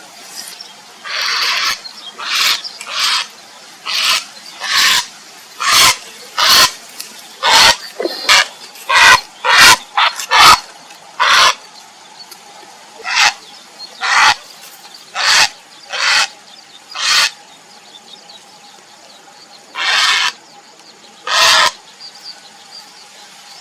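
Grey heron giving a series of short, harsh calls, about one a second, with a pause of a few seconds before the last two.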